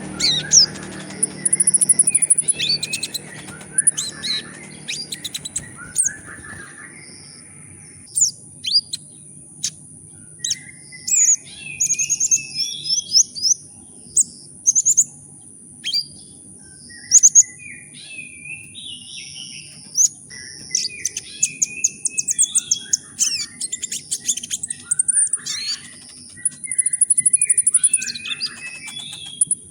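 Kolibri ninja, a sunbird, singing in quick bursts of high chirps and rapid trills, with a steady thin high whine underneath throughout.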